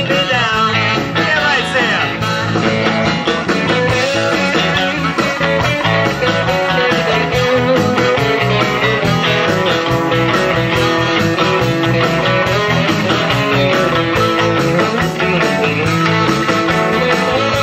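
Live rock-and-roll band playing an instrumental passage after a chorus, with guitar out front over bass and drums.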